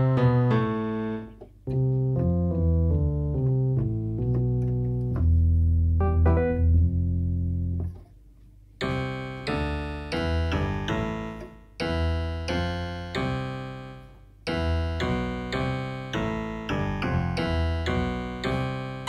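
Yamaha PSR-175 portable keyboard playing a piano-like preset: a melody over bass notes. After a short pause about eight seconds in, a brighter pattern of repeated chords over bass begins.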